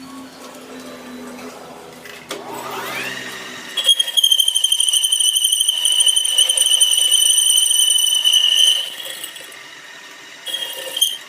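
Metalworking machine in a truck wheel hub factory: a motor's pitch rises as it spins up, then a loud, high, slightly wavering whine runs for about five seconds and drops away.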